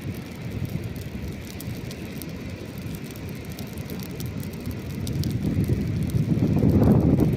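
Campfire crackling with small sharp pops over a low, rushing rumble. The rumble swells louder about five seconds in.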